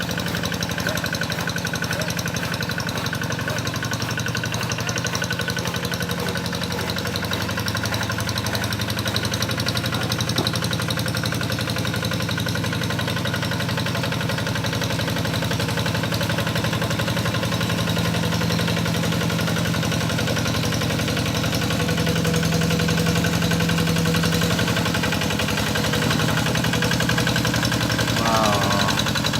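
Rice-field plowing tractor's engine running steadily with a rapid, even firing beat, swelling slightly about two-thirds of the way through.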